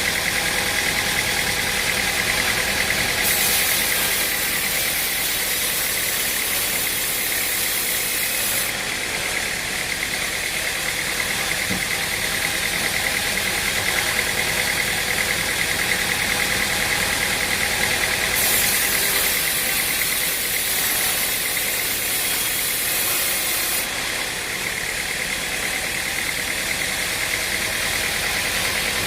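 Stump grinder's engine running steadily, with two stretches of added high hissing, each about five seconds long, starting about three seconds in and again past the middle.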